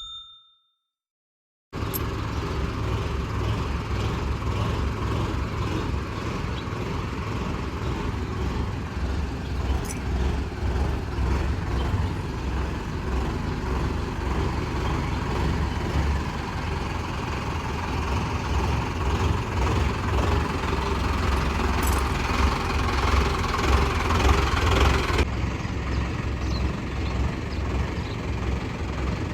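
Diesel engine of a Mahindra Arjun Novo 605 DI tractor fitted with a Gahir Nippy 45 mini combine harvester, running steadily with a pulsing low throb. It cuts in about two seconds in, after a brief silence.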